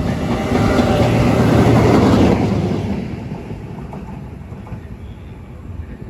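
An E402B electric locomotive coupled to a G2000 diesel locomotive passes through the station at speed, as a loud rushing rumble that peaks about two seconds in and then fades away.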